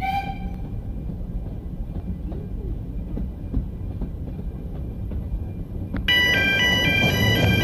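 Narrow gauge railway coach running along the track: a steady low rumble with faint clicks of the wheels over rail joints, and a short ringing tone at the very start. About six seconds in, background music comes in over it.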